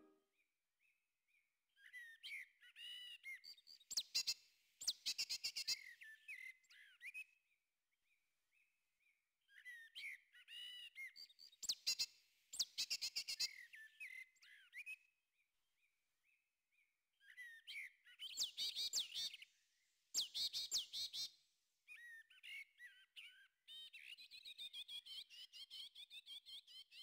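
A songbird singing in about four long phrases of fast chirps, trills and whistled notes, each a few seconds long with short pauses between them.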